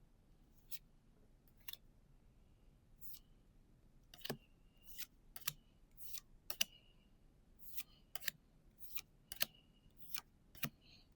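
Pokémon trading cards handled one by one, giving a series of short, crisp clicks and snaps. They are sparse at first and come about twice a second from about four seconds in.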